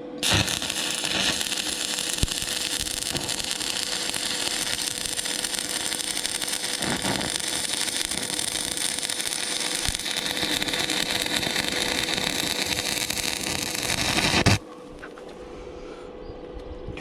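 Arc welding a bead: a steady crackling sizzle that starts suddenly and cuts off abruptly about fourteen and a half seconds in.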